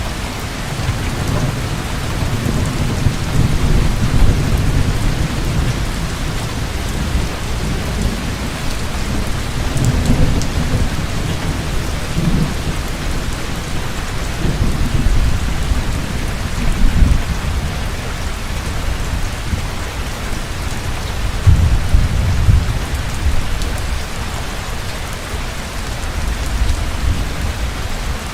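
Heavy rain falling steadily, with low thunder rolling several times through it; the loudest rumbles come near the middle and about three-quarters of the way through.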